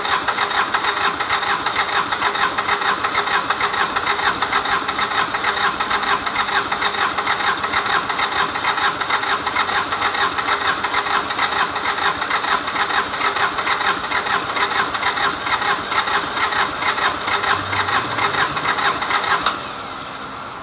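Kubota D905 three-cylinder diesel engine running steadily with a fast, even clatter. Near the end the sound drops sharply to a much quieter steady running sound.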